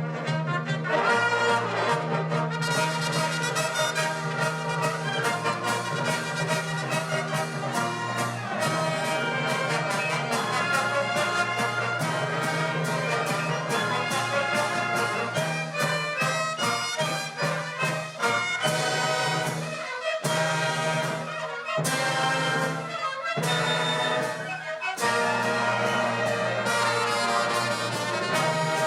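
Brass-led band music with trumpets and trombones over a steady bass line, broken by a few short pauses between phrases in the second half.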